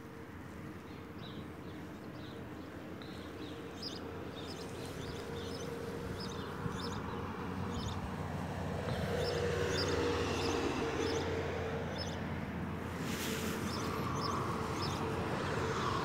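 Outdoor background: small birds chirping in short repeated calls over a steady low hum, with wind noise on the microphone growing louder about halfway through.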